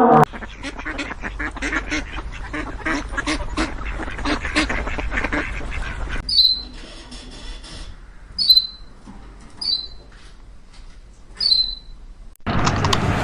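A flock of waterfowl calling, a busy overlapping chorus of quacks and honks, which drops away after about six seconds. After that come four short, high-pitched calls a second or two apart.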